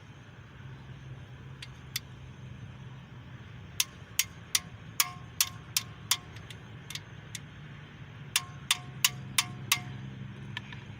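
Hammer blows on metal, each with a short metallic ring, about three a second. There is one run of about ten strikes, a pause, then a second run of five or six.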